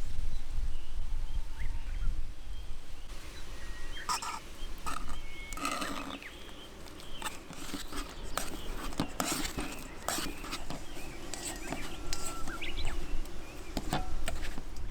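Wind buffeting the microphone in a sea breeze, with scattered sharp clicks and clinks and short high chirps, likely birds calling.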